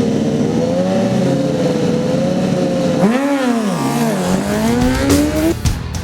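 Racing motorcycle engine running hard: a steady high note, then a quick surge and drop at about three to four seconds in, as at a gear change, then climbing in pitch again before it cuts off near the end.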